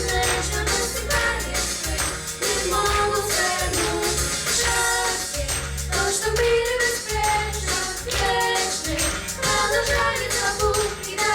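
A vocal group singing a song over an accompaniment with a pulsing bass line and steady percussion.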